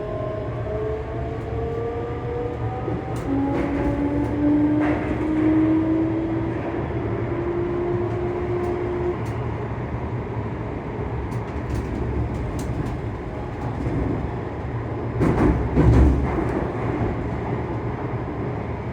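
Traction motors of a ScotRail Class 385 electric multiple unit humming, heard on board. Several tones rise slowly in pitch and fade out about nine seconds in, over the steady rumble of the wheels on the track. A louder rumble with clicks comes about fifteen seconds in.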